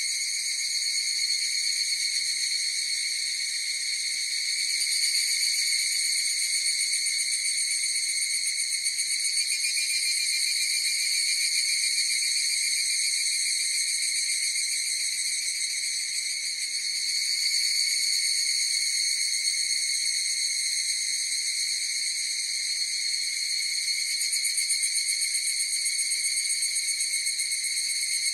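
A chorus of higurashi (evening cicadas, Tanna japonensis) calling: a continuous, high-pitched, even trilling that swells and eases slightly in loudness.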